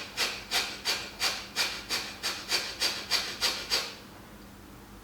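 Kapalabhati breathing: a rapid series of short, forceful exhales through the nose, about three a second, stopping about four seconds in.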